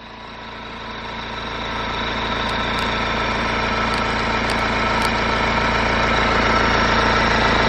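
BMW N47 four-cylinder diesel engine idling steadily from cold, just after start-up. It gets louder over the first few seconds and then runs evenly.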